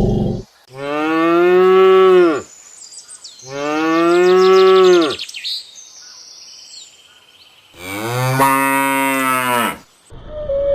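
A cow mooing three times: long calls that rise slightly and then fall in pitch at the end, the third one higher than the first two. Faint high chirps sound between the calls.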